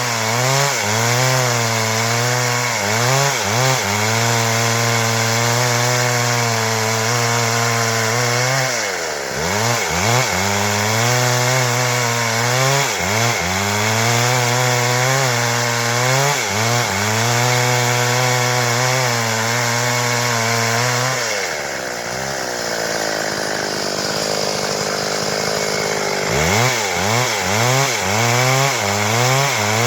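Stihl MS 382 two-stroke chainsaw running at high revs while cutting wood into boards. Its pitch sags and recovers about nine seconds in. Past the two-thirds mark it eases off to a lower pitch for a few seconds, then revs back up.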